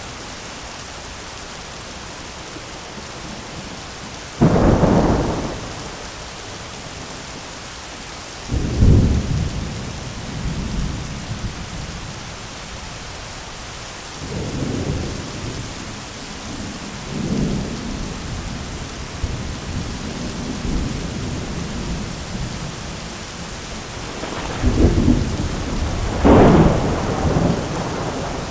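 Steady heavy rain, with thunder rumbling several times: a sudden loud crack-and-rumble about four seconds in, another at about eight seconds, softer rolls in the middle, and two loud peals near the end.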